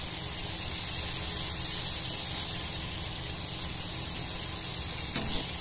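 Paneer pieces sizzling steadily in hot oil in a frying pan as they shallow-fry to golden brown.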